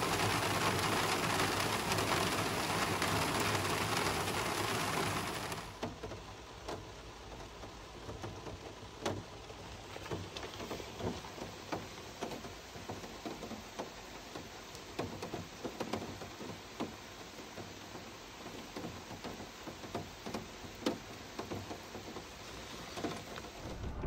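Rain shower: a dense, steady rain hiss for the first five or six seconds, then a quieter patter of separate drops tapping irregularly close by, heard from inside the small aluminium bicycle caravan.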